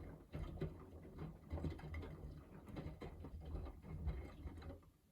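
Miele W3985 WPS front-loading washing machine tumbling laundry in the final rinse water, with irregular sloshing and soft knocks over a low motor hum; the drum stops near the end for its pause between tumbles.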